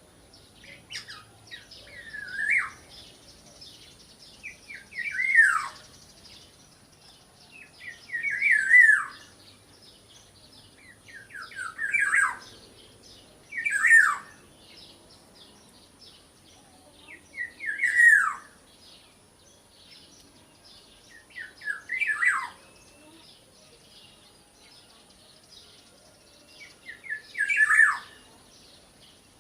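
Black-naped oriole (kepodang) calling: a short downward-sliding call repeated eight times, every few seconds, over faint high twittering and a steady thin high whine.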